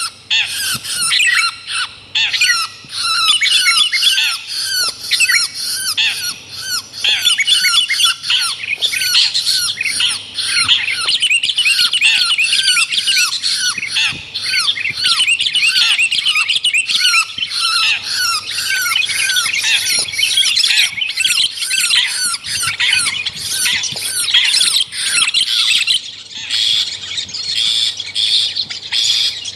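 Dense, unbroken chattering and squawking of songbirds, many short harsh notes a second overlapping, from a bird-lure track that mixes long-tailed shrike (cendet) calls with sooty-headed bulbul (kutilang) chatter.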